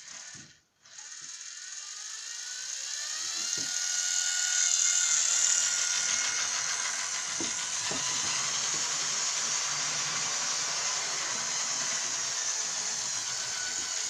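HO/OO gauge model locomotive's small electric motor whining as the train gets under way. The pitch rises over the first few seconds, then the motor runs steadily, with a few clicks along the way.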